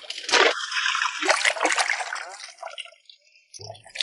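Water splashing and running as wind-dried vegetable heads are washed by hand. It eases off about three seconds in and starts again just before the end.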